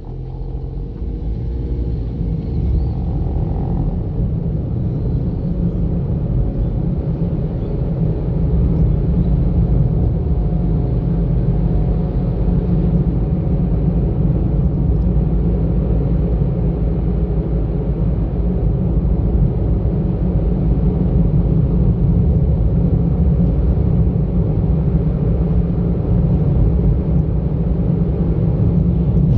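Car driving on the road: steady engine and road rumble, building over the first several seconds as it gathers speed, then holding even.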